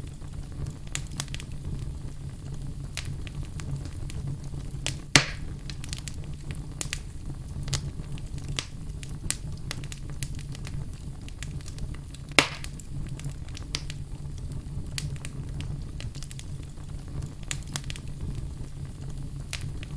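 Wood fire burning in a fireplace: a steady low rush of flame with frequent small crackles, and two loud sharp pops, one about five seconds in and one about twelve seconds in.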